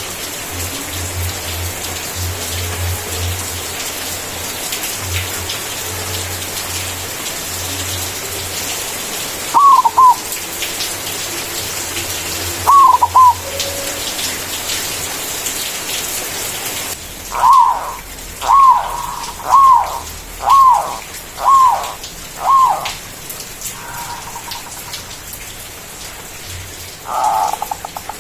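White zebra dove (perkutut) cooing its song: two short paired coos, then a run of six coos about one a second, ending in a rolling trill near the end. A steady rain-like hiss lies under the first half.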